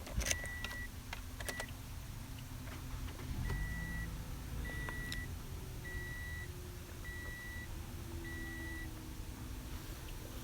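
2016 Toyota RAV4 dashboard warning chime beeping with the key in the ignition before the engine is started: a few key clicks, then short high beeps, the last five evenly spaced about a second apart.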